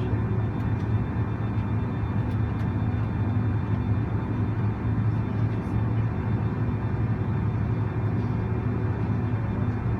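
Steady cabin noise of a Boeing 767-400ER on the ground, with a strong low hum and a few faint steady tones over an even rush.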